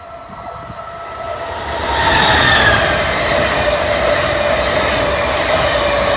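Amtrak Acela Express trainset approaching and passing close by. A rising rush of wheels and air grows loud about two seconds in and then holds steady, with a high whine that drops slightly in pitch as the front goes by.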